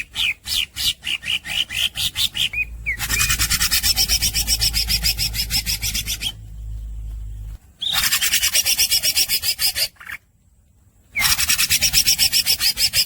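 Green leafbird (cucak ijo) singing: a string of quick chirps sliding up in pitch, then three long, very fast rasping trills, broken by two short pauses.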